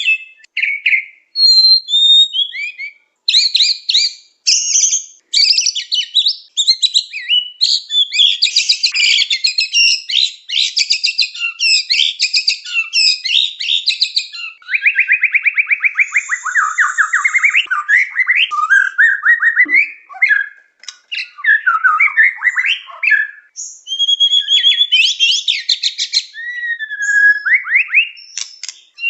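White-rumped shama singing a long, varied song of loud whistles, slurred glides and rapid trills, almost without pause.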